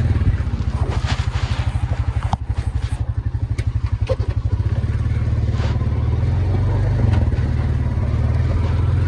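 ATV engine idling with a low, fast, even chug that grows steadier about halfway through, with a few light knocks and clatters.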